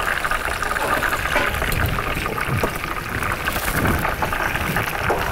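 Pieces of meat frying in a pan of hot oil: a steady bubbling sizzle with many small crackles.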